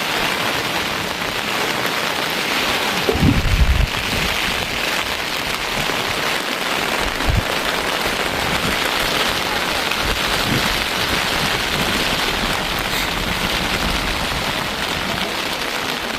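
Steady rain falling, an even hiss of drops on surfaces, with a brief low rumble a little over three seconds in.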